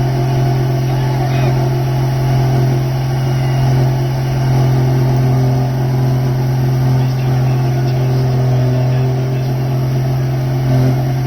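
Mack truck's diesel engine held at steady high revs during a burnout, with a steady hiss over the low engine note.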